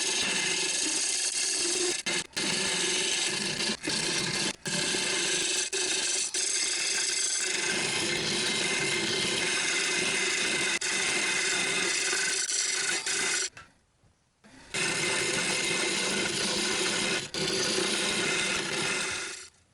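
A tool scraping against wood spinning on a wood lathe, a steady rasping hiss over the lathe's hum. It breaks off briefly a few times and cuts out for about a second partway through.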